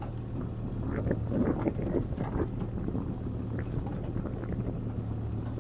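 CAT 303C CR mini excavator's diesel engine running steadily, with scattered knocks and rattles between about one and two and a half seconds in.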